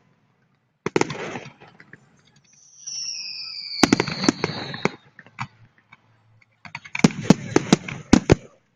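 Fireworks salute: a burst of crackling about a second in, then a whistle falling in pitch over several seconds with cracks over it, then a quick volley of sharp bangs near the end.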